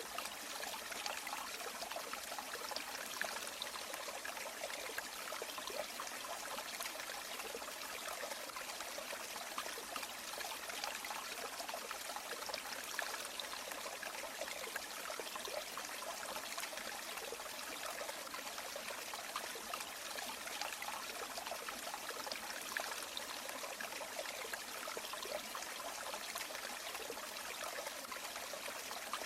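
River water flowing steadily, a continuous light, bright rush of splashing and trickling with little low rumble.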